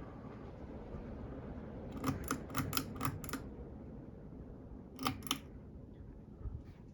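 Ceiling fan running with a steady low whir. A quick run of about six sharp clicks comes about two seconds in, and two more clicks follow about five seconds in.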